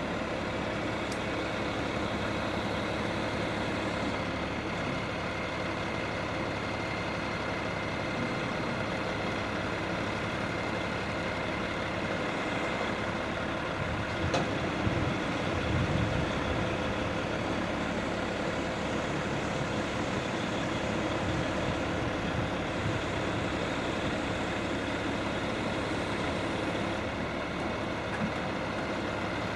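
Truck engine running steadily at idle, with one sharp knock about halfway through and a brief swell in level just after it.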